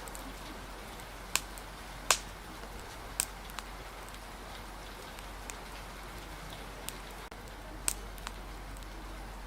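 Steady rain hiss with a few sharp, irregular pops and snaps of a crackling wood fire, the loudest about two seconds in.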